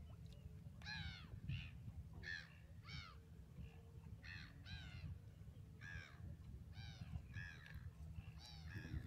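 A bird calling over and over: about a dozen short calls, often in pairs, each rising then falling in pitch, over a faint low rumble.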